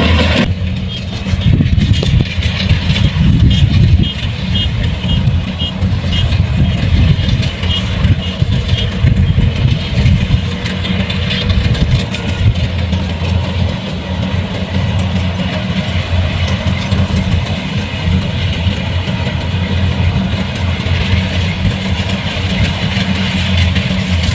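Kubota rice combine harvester's diesel engine running steadily under load.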